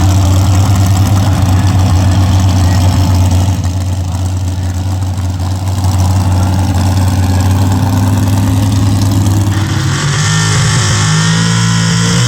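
Loud truck-pull engine running hard at high, steady revs, easing slightly about four seconds in; near the end the pitch starts to waver up and down.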